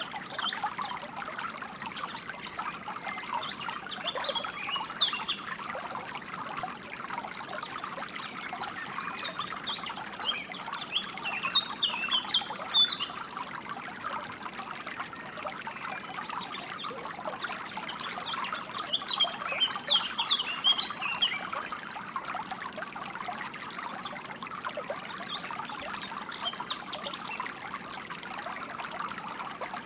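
Water trickling and flowing steadily over stones, with songbirds chirping in short bursts every several seconds.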